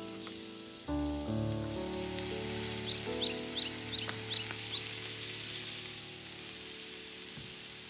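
Chopped red onion sizzling as it lands in hot oil in a frying pan, a hiss that rises about a second in and dies down after about five seconds, under soft background music.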